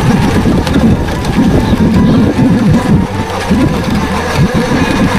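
Wind buffeting a bike-mounted or helmet camera's microphone and rattling over rough ground while an electric bike is ridden off-road, with a faint steady whine underneath.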